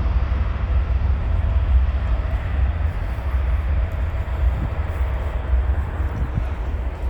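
Jet engine rumble from an Airbus A330-900's Rolls-Royce Trent 7000 turbofans: a deep, steady roar that eases slightly near the end.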